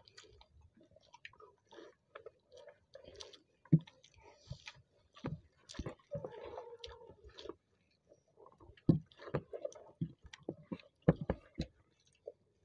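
Close-up chewing and mouth smacking of two people eating rice with their hands, with wet squishes and clicks as fingers work the rice. A few sharp knocks stand out about 4, 9 and 11 seconds in.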